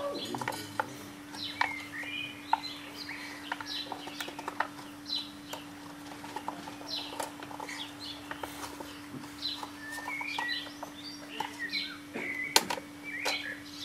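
Small birds chirping and twittering again and again, with scattered light clicks and a faint steady hum underneath.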